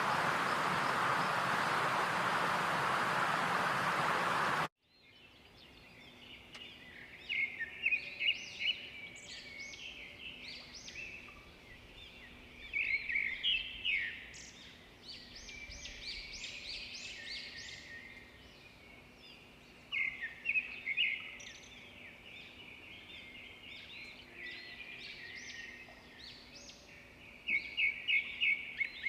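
A loud, steady rushing hiss that cuts off suddenly about five seconds in, followed by birds chirping and trilling in quick clusters of notes, with pauses between them.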